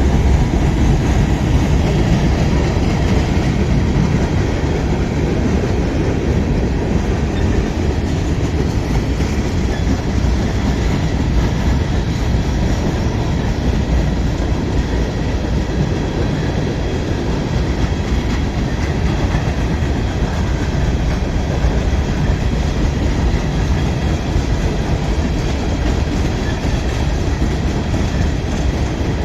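A train's cars rolling past at close range: a steady rumble and clatter of steel wheels on the rails that continues without a break.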